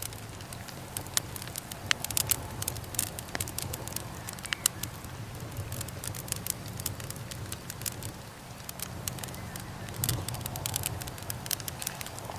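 Wood fire crackling: irregular sharp pops and snaps from the burning wood over a low steady rumble, busiest a couple of seconds in and again near the end.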